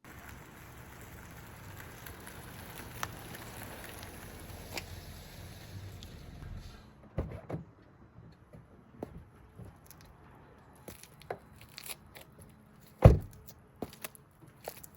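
A soft steady rumble, then scattered light knocks, crunches and rustles of things being handled, with one loud thump about 13 seconds in.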